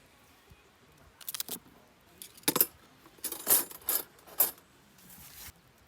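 Several sharp clinks and clatters of small hard objects being handled and set down, the loudest in the middle, followed by a brief rustle near the end.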